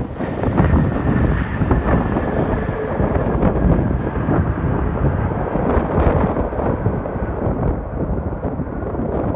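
Boeing 787-8 airliner's jet engines rumbling, with a faint whine that slowly falls in pitch, under heavy wind buffeting on the microphone.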